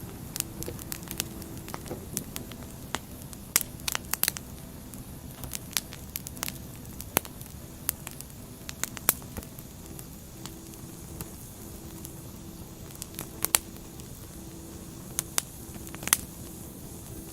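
Wood fire burning, with irregular sharp crackles and pops of the burning logs over a steady low hiss.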